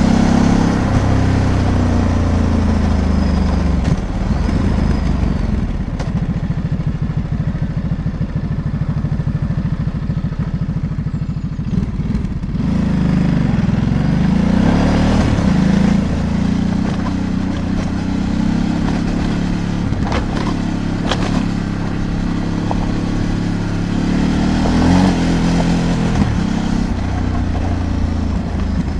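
Ducati DesertX Rally's 937 cc Testastretta V-twin engine running as the bike is ridden, its revs falling and rising several times with throttle and gear changes. A few sharp knocks come about twenty seconds in.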